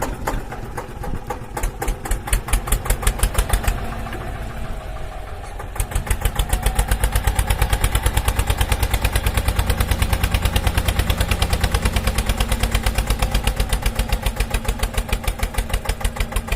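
Tractor engine chugging at a steady idle-like pace, about six or seven beats a second. The beat eases off about four seconds in and comes back strongly about two seconds later.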